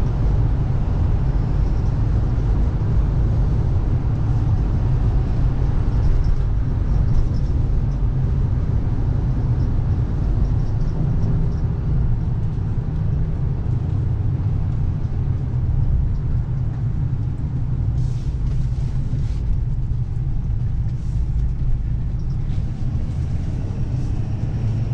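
A 2014 Ford F-550's 6.7 L Power Stroke turbo-diesel V8 running steadily under way with road and tyre rumble, heard from the cab. A few light clicks come about three-quarters of the way through.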